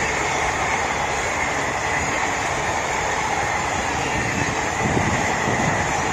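Blue ICF passenger coaches of an express train rushing past at speed: a steady roar of wheels on the rails, with a few heavier low rumbles about five seconds in.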